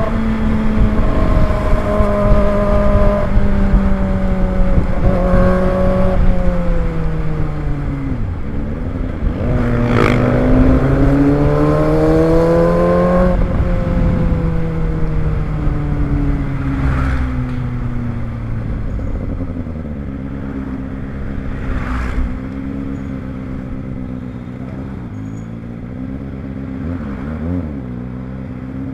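Kawasaki ZX25R's 249 cc inline-four engine under way: the revs hold high, dip, then climb steadily for several seconds before falling away and settling into a lower, steady run. A low rush of wind over the microphone comes with the faster part, and a few sharp clicks are heard along the way.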